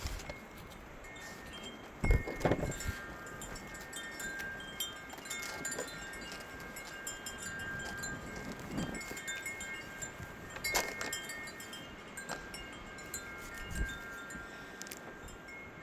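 Wind chimes ringing in the breeze, several clear tones sounding and overlapping on and off. A sharp knock comes about two seconds in and another weaker one later.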